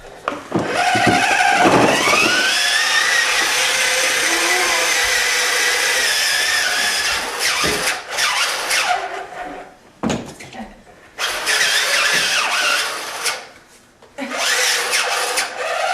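Battery-powered ride-on toy motorcycle playing its electronic engine sound effect through its speaker: a start-up that rises in pitch and is held for several seconds, then shorter bursts with brief gaps.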